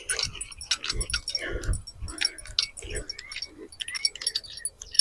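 Metallic jingling and rapid clicking from fishing tackle as a fish is reeled in, with some dull handling thumps.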